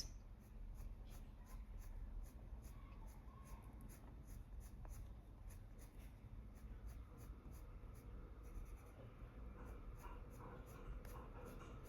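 Faber-Castell Polychromos coloured pencil scratching faintly on paper in short, quick flicking strokes, about three a second.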